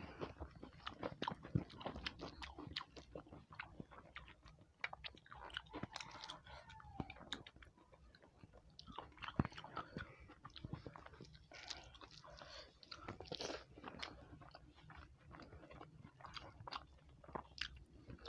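A person chewing a mouthful of rice and fish curry eaten by hand, with many small irregular clicks of mouth noise throughout.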